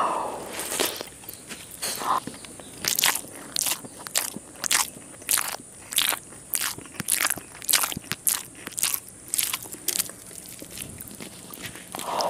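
Close-miked chewing and biting of curry-coated fried eggs with crisp, browned edges: a run of sharp crunches, about two a second.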